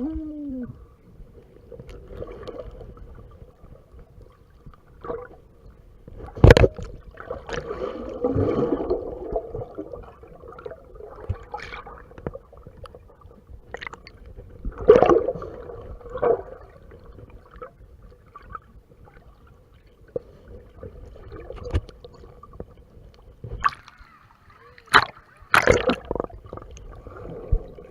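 Lazy-river water sloshing and gurgling around a camera held at the surface, with several sharp, loud splashes a few seconds apart, all heard muffled through a waterproof camera case.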